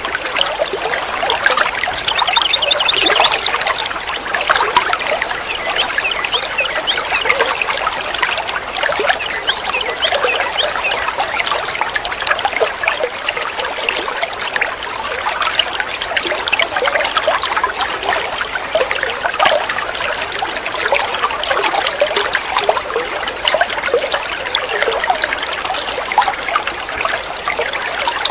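Songbird chattering continuously in a dense run of short, quick chirps and twitters.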